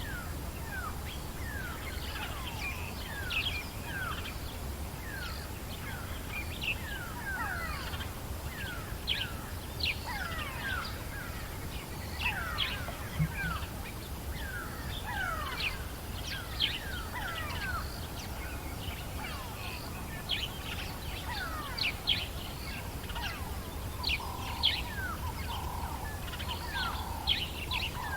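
Dawn chorus of many birds in the African bush: dense, overlapping short chirps and whistles, many sweeping downward, over a low steady rumble. Near the end a lower warbling call joins in.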